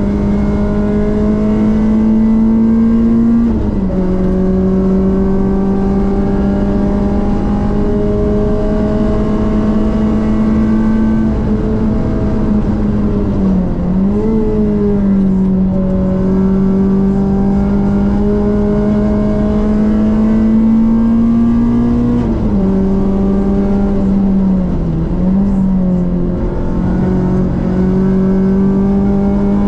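Renaultsport Clio 197 Cup's 2.0-litre four-cylinder engine running at high revs, its pitch climbing slowly under acceleration. An upshift drops the pitch about 3.5 seconds in and again about 22 seconds in, with brief dips around 14 and 25 seconds.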